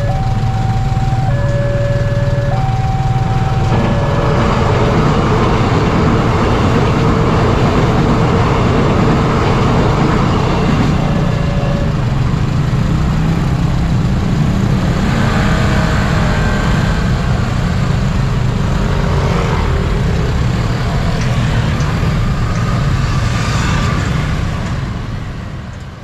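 Railroad crossing's electronic warning bell alternating between two notes for the first few seconds, then a train passing with a heavy low rumble and wheel-on-rail noise, fading out near the end.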